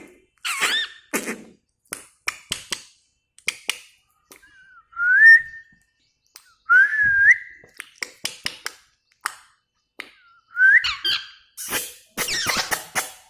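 Pet parrot whistling: three or four short whistles that rise in pitch at the end, with sharp clicks and chirps between them and a harsher, noisier burst of calls near the end.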